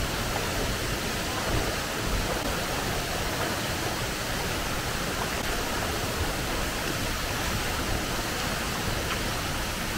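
Waterfall pouring steadily into a pool: a constant, even rush of falling water.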